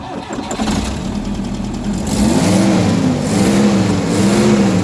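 Toyota LiteAce carbureted engine just started and running, then revved up and down about three times from around two seconds in. It catches and runs cleanly after a carburetor overhaul meant to cure hard starting.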